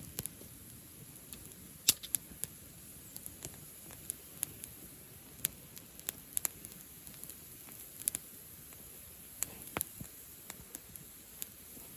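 Wood bonfire crackling: scattered sharp pops and snaps at irregular intervals, the loudest about two seconds in, over a low steady hiss.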